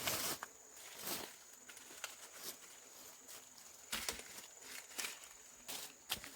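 Irregular rustling and short light knocks, as of things being handled or walked on, coming in separate bursts about a second in, around four seconds and near the end.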